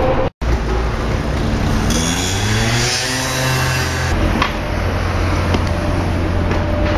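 Metro train running with a steady low rumble; about two seconds in, the electric traction motors' whine glides down in pitch, holds, and cuts off about four seconds in.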